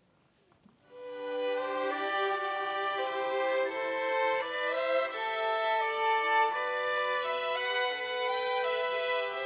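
Violin ensemble playing a slow melody in harmony, coming in about a second in: the instrumental introduction to a sung hymn.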